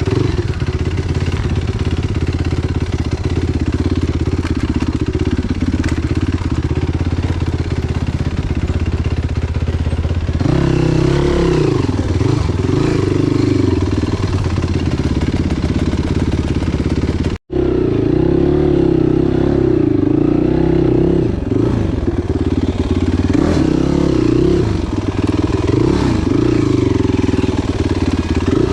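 Enduro motorcycle engine running, steady at first, then with revs rising and falling from about a third of the way in. The sound cuts out for an instant a little past halfway.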